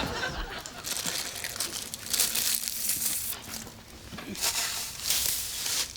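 Rustling and crinkling handling noise in irregular bursts, loudest for about a second from two seconds in and again about five seconds in.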